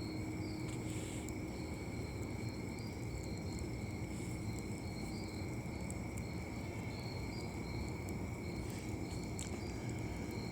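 Night insects trilling steadily in several high, continuous tones, over a low rumble of wind.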